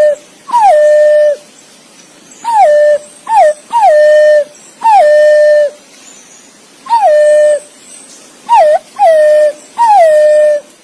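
Green pigeon (punai) calling: a series of clear whistled notes, each sliding down in pitch and then held steady, some short and some drawn out, given in twos and threes.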